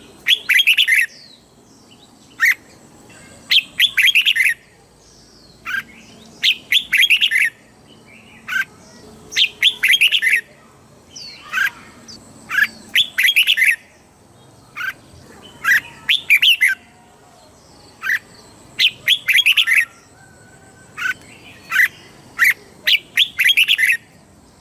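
Red-whiskered bulbul singing: a short clear note, then a quick chirpy phrase of about a second, repeated every three seconds or so. This is the kind of recording played to caged bulbuls to teach them song or to rouse them.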